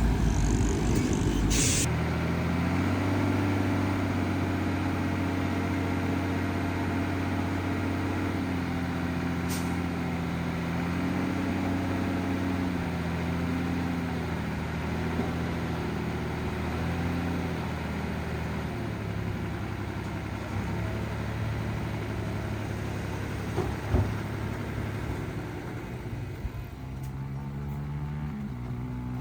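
Heavy diesel engines of earth-moving machines running under changing load, their pitch rising and falling. A short hiss near the start, and a single knock about 24 seconds in.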